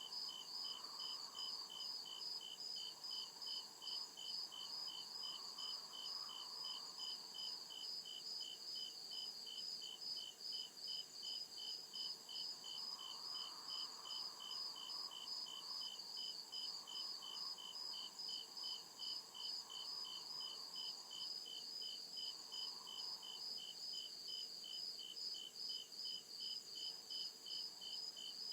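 Crickets chirping in a steady, even rhythm, with two chirping voices at different pitches layered together, and a fainter lower insect hum that swells and fades now and then.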